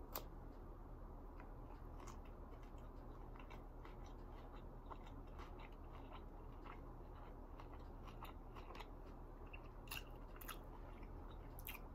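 Close-up chewing of a mouthful of homemade spring roll, with soft, scattered mouth clicks and small crunches. A steady low hum runs underneath.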